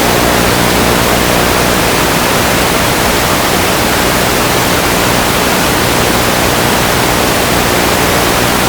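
Loud, steady static hiss on the audio feed, with a low electrical hum underneath.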